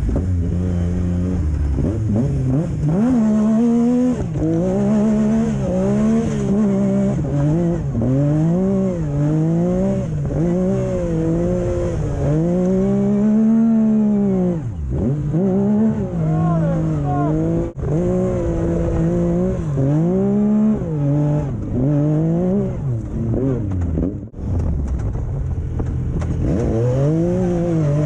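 A vehicle engine revving up and down over and over as it is driven hard, its pitch climbing and then dropping every second or two. The throttle briefly lets off a few times, most sharply about halfway through and again near the end.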